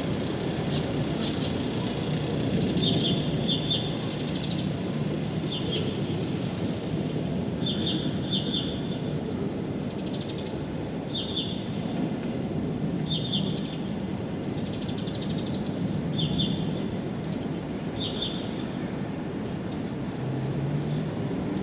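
Small birds chirping in short clusters of high notes, repeating every second or two, over a steady low rumble of background noise.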